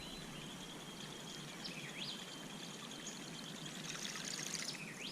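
Faint, steady trickling and gurgling of water, with a few short bird chirps.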